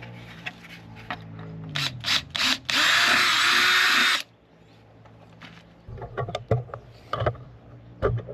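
Power drill drilling out bolt holes for a motorbike mudguard. The motor runs, winds down in pitch, gives a few short bursts, then drills loudly for about a second and a half. Scattered knocks and clicks follow near the end.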